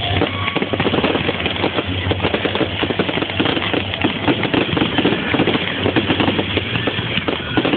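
Fireworks crackling: a dense, continuous run of rapid irregular pops and snaps.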